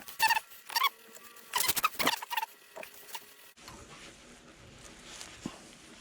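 Short squeaks and scrapes of metal on metal as a tap threaded into a stuck pump valve is twisted and worked; the valve spins in its bore without coming out. The squeaking stops at a sudden cut a little past halfway, leaving only a faint background.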